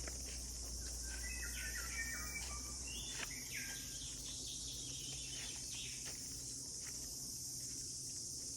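Forest ambience: a steady high-pitched chorus of insects, with a bird singing a run of clear whistled notes that step up and down in the first few seconds, then only a few scattered notes.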